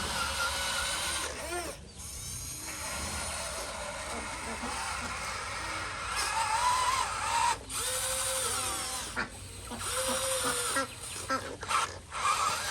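Small electric motors of a remote-control excavator whirring like a drill, stopping and starting several times as the machine's functions are worked.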